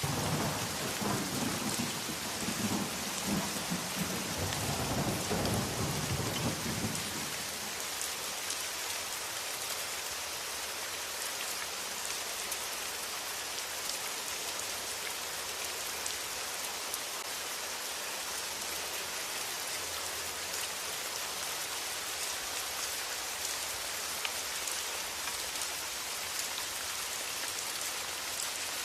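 Steady heavy rain with a roll of thunder rumbling in the first several seconds, then fading out, leaving the even hiss of rain.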